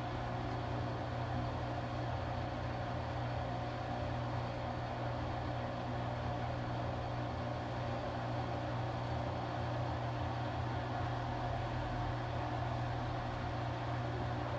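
Washing machine running steadily, a constant low hum with a few steady tones over an even wash of noise.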